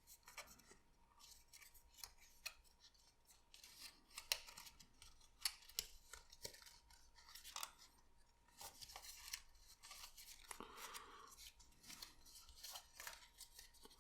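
Faint paper handling: papercraft card parts being folded and creased, with scattered small crinkles and clicks at an irregular pace.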